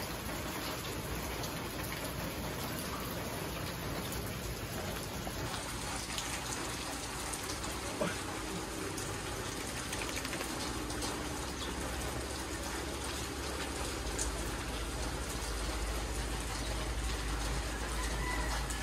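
Steady rain falling and pattering on surfaces, with a faint knock about eight seconds in.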